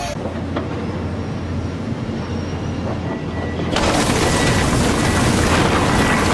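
Heavy machinery's diesel engine running with a steady low rumble. Just under four seconds in, a louder, harsher noise across the whole range comes in and holds.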